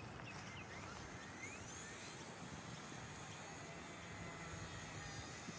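Small electric motor of a K110S RC helicopter spooling up: a faint whine that rises in pitch starting about a second and a half in, then holds steady.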